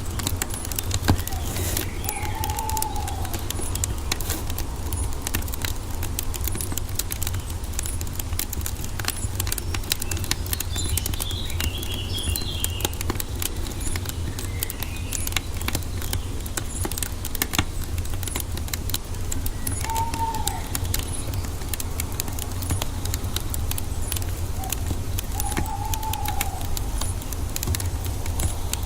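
Wood fire crackling with many small sharp pops over a steady low rumble. A bird gives a short arched whistle three times, once early and twice near the end, with brief higher chirps in the middle.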